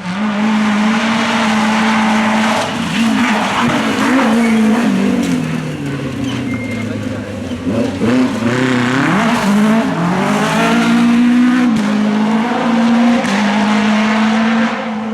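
Group F2000 rally car engine running hard at steady high revs. The revs sink over several seconds, rise and fall quickly a few times, then climb back to a steady high pitch.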